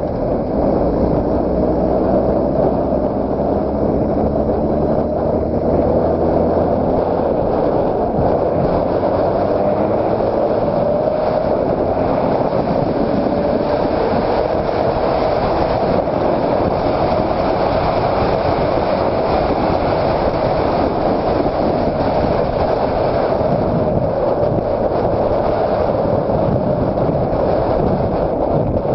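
2006 Honda CBR600RR's inline-four engine running at a steady cruising speed, its pitch drifting gently up and down, under heavy wind and road noise.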